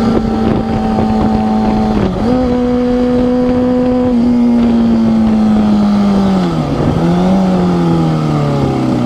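Motorcycle engine running at a steady pitch, with a brief dip and recovery about two seconds in like a gear change, then its pitch falling steadily through the second half as the bike slows down.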